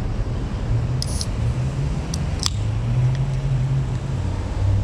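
Yamaha XJ600 Diversion's air-cooled inline-four engine running as the motorcycle rides along, its pitch wavering and rising a little about three seconds in, over a steady rush of wind noise. A couple of short clicks sound about one and two and a half seconds in.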